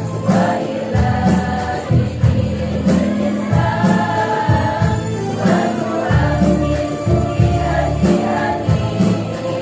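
Women's choir singing an Islamic devotional song in unison, over an accompaniment with a steady bass line and regular percussion hits.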